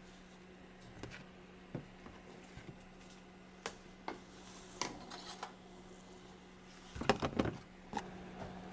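Scattered light clinks and knocks of dishes and utensils, with a quick cluster of clatter about seven seconds in, over a steady low hum.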